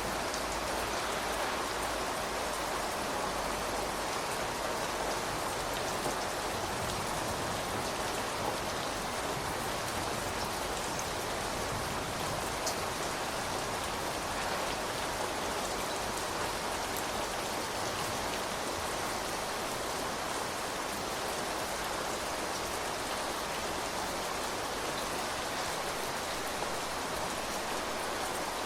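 Steady rain falling, an even hiss of many drops with an occasional sharper drop tick.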